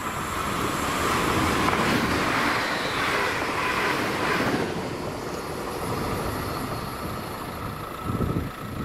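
ScotRail Class 380 electric multiple unit passing on the line: a rush of wheel and rail noise that swells over the first couple of seconds and fades away after about four and a half seconds.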